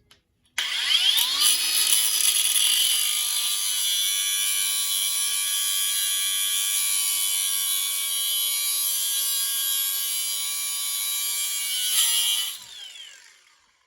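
Grinder with a cutting wheel spinning up and cutting off a small mounting tab, a steady high-pitched whine for about twelve seconds. It is then switched off and winds down.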